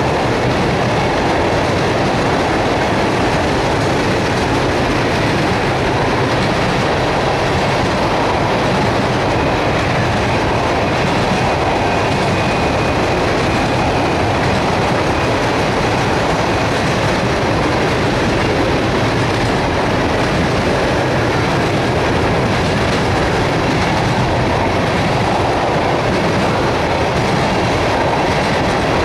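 Empty steel tank cars of a freight train rolling past close by: a loud, steady noise of steel wheels running on the rails, unbroken throughout.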